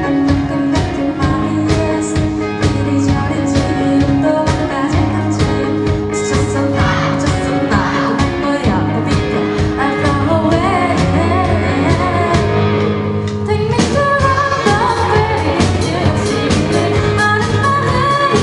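A live amateur band playing a pop-rock song: a steady drum beat, bass and guitar, with a voice singing the melody from about six seconds in.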